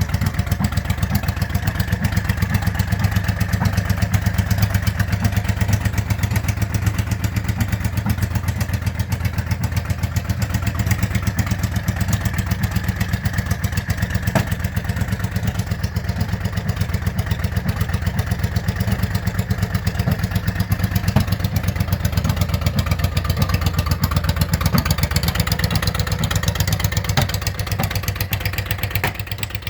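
Yamaha V Star 650's V-twin with straight pipes idling steadily in a fast, even run of exhaust pulses, still warming up after a cold start. The level drops a little near the end.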